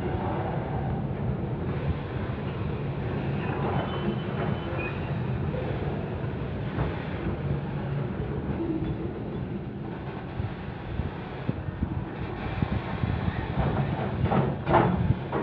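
Container freight train's wagons rolling past on the rails in a steady run, with a few louder metallic clanks near the end.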